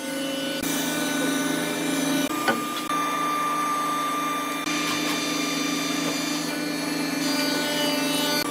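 Woodworking power tool motor running with a steady hum, its pitch and mix changing abruptly several times in the first five seconds.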